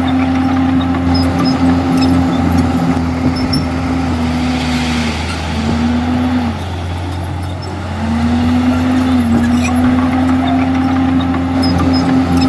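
Komatsu D51EX bulldozer's diesel engine running hard at a steady high pitch. About halfway through the pitch sags and the level dips for a couple of seconds, then it climbs back up.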